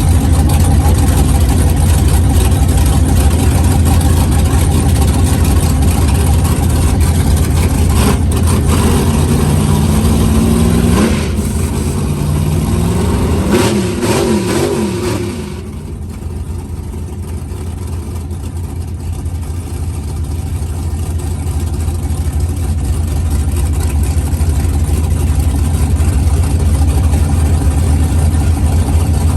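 Loud engine noise from drag-racing trucks, with a steady low drone throughout. Partway through, a turbocharged street truck's engine revs up in several rising sweeps; then the sound drops off sharply and slowly builds again.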